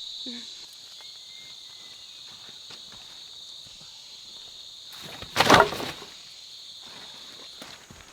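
Insects chirring in a steady, high, even drone. About five seconds in comes a brief, loud scuffing noise.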